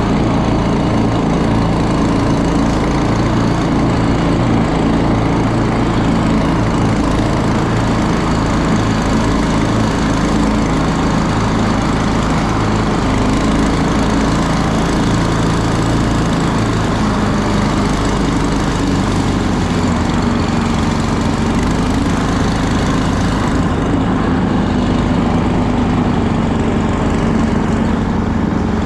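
Small petrol engine of a motorized snow tow (motor-dog) running steadily under way, its note shifting with the throttle about two-thirds of the way in.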